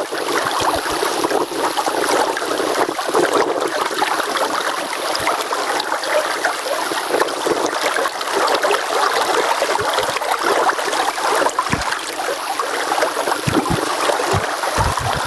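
Steady rush of flowing stream water, with a few brief low thumps.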